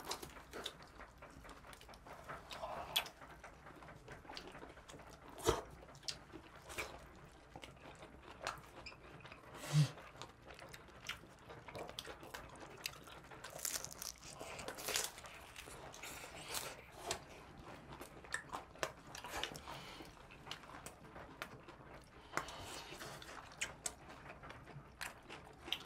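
Close-up sounds of people biting and chewing thin-crust pizza: irregular soft crunches and mouth clicks, with a couple of louder knocks about five and ten seconds in.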